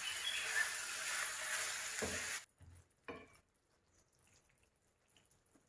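Food frying in hot oil in a pan with a steady sizzle and a couple of knocks from stirring; the sizzle cuts off abruptly about two and a half seconds in, leaving near silence with one more faint knock.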